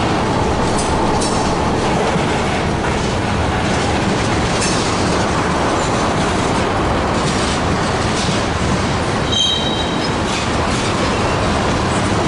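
Freight train cars rolling past, a loud steady rumble with the clatter of wheels over rail joints. A brief high-pitched wheel squeal comes about nine seconds in.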